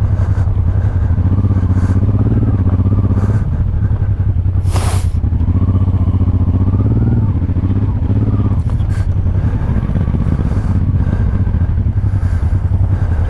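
Honda Transalp 600's V-twin engine running under a rider off-road, its revs rising and falling with the throttle. There is a short burst of hiss about five seconds in.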